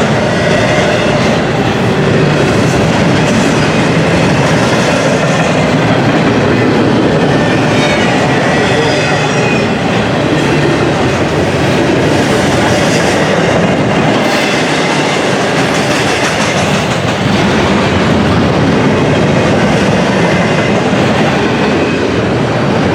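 Intermodal container freight train rolling past: a steady rumble of steel wheels on rail with clickety-clack over the rail joints and faint squeals from the wheels at times.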